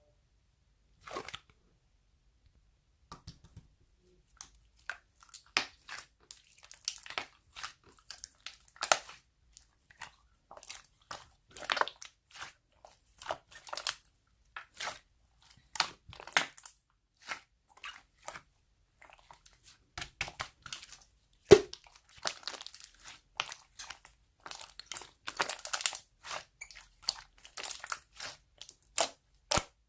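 Slime being squished and pressed by hand, giving irregular short crackles and pops, sparse at first and coming several a second later on.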